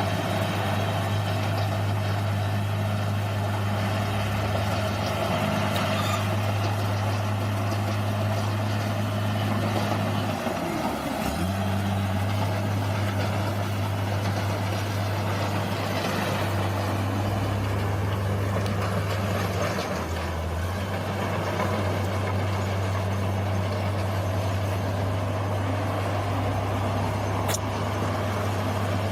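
Bulldozer's diesel engine running steadily under work. Its note dips briefly about a third of the way in and again about two-thirds in.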